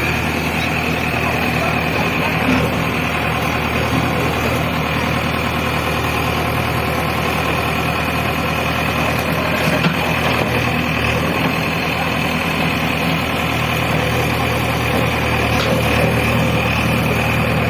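A JCB 3DX backhoe loader's diesel engine running steadily at an even speed, with a steady high whine over it. A couple of light knocks come through, one a few seconds in and one about halfway.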